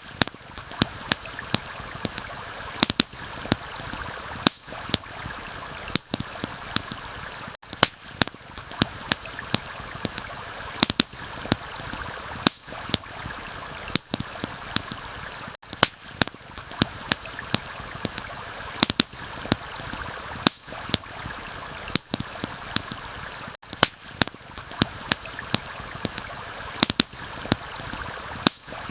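Campfire crackling with frequent sharp, irregular pops over the steady rush of a flowing stream.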